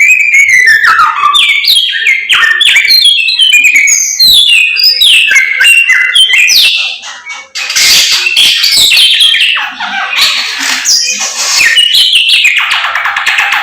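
Samyong songbird singing vigorously in loud, fast runs of varied whistled notes, many of them falling in pitch, with a short break about seven seconds in.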